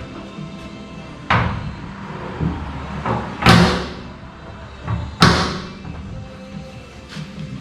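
Chevy crew-cab truck door being swung shut onto its latch three times, each a sharp slam with a short ring, the middle one the loudest; the striker plate is being shimmed out to get the latch to catch properly. Background music runs underneath.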